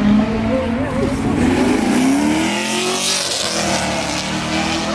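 Car engine revving, rising in pitch about one to two seconds in, with a hissing rush around three seconds, amid people talking.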